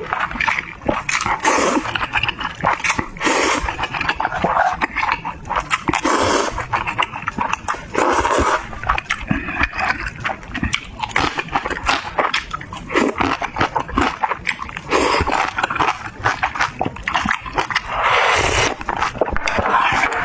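Close-miked eating sounds: repeated chewing and crunching with wet mouth noises and slurps, in an uneven run of clicks and smacks.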